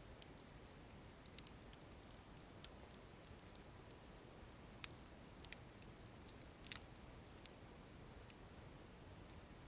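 Wood fire crackling quietly: sparse, sharp pops and snaps every second or so over a faint low hiss, with a louder double snap about two-thirds of the way through.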